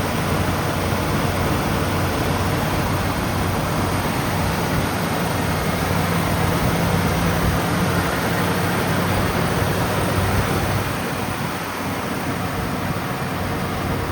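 1996 Ford F-150 engine running steadily just after a cold start. It gets a little quieter about eleven seconds in.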